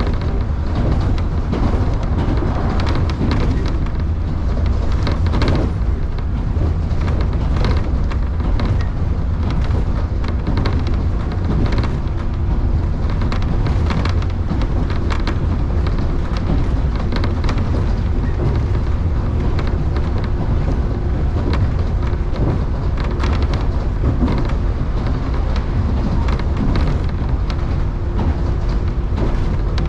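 Electric commuter train running between stations, heard from inside the carriage: a steady low rumble with repeated clacks of the wheels over the rails. A faint steady hum runs under it from about halfway through.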